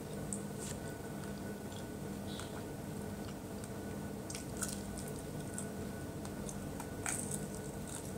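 A person biting and chewing fried chicken close to the microphone: wet mouth smacks and small clicks scattered throughout, with sharper ones about halfway and near the end. A steady low hum runs underneath.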